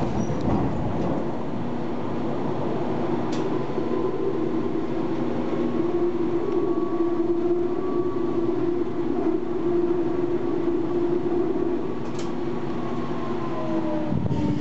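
Tram running between stops, heard from inside the car: a steady rumble of wheels on rail under an electric motor whine that drifts slightly in pitch, with a couple of brief clicks.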